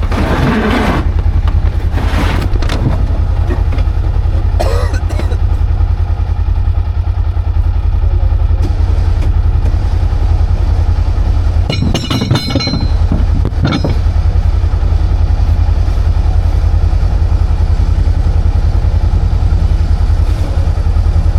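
Polaris side-by-side's engine running steadily close by, a constant low rumble, with a few short louder noisy flare-ups, the biggest about twelve seconds in.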